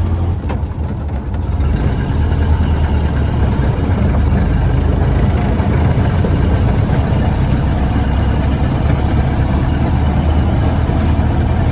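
A vehicle's engine and road noise while driving, a steady low drone that gets a little louder about two seconds in.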